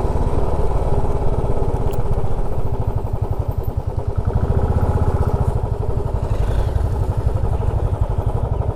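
Motorcycle engine idling steadily, with an even, rapid beat.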